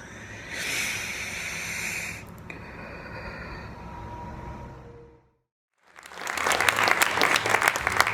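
Faint room noise, a brief moment of dead silence about five seconds in, then an audience applauding from about six seconds in.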